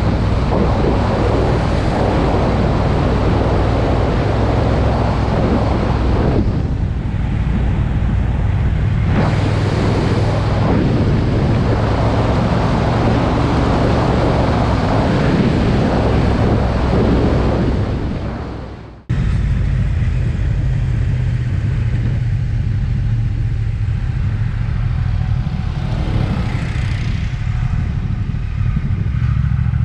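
Triumph Speed Twin's parallel-twin engine running steadily at cruising speed under a broad rush of wind and road noise. About two-thirds of the way through, the sound fades and cuts out for a moment, then comes straight back with less rush.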